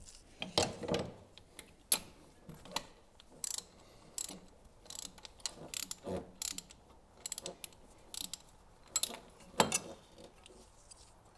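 Ratchet wrench clicking in short irregular runs, with sharp metal clinks, as a tight spark plug is worked loose from a 1934 Bentley engine.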